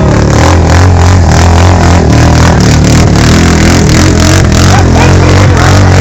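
Motor vehicle engine running loud and steady close to the microphone.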